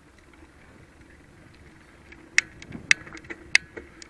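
Bicycle riding along a path: a steady low hum with faint rolling noise, then from about halfway a run of sharp clicks and knocks from the bike, about eight in under two seconds.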